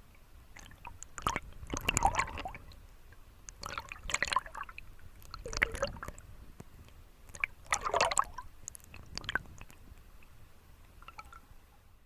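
Homemade rattling spoon lure worked through water: five bursts of splashing and clicking, roughly every two seconds.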